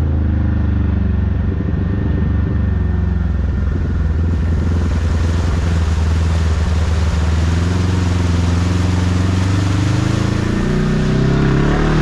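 Kawasaki KRX side-by-side's parallel-twin engine running steadily under way. A steady hiss joins about four seconds in, and the engine note rises and falls near the end.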